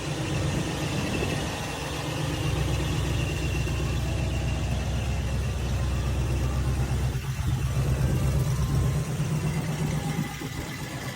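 1970 Ford Mustang's 302 V8 engine running steadily at idle.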